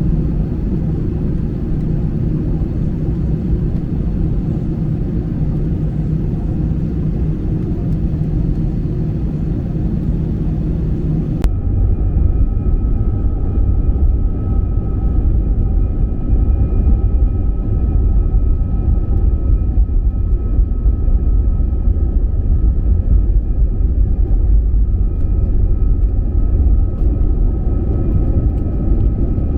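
Airbus A320 cabin noise: a steady hum of jet engines and airflow. About eleven seconds in it changes abruptly to a louder deep rumble with thin, steady whining tones over it.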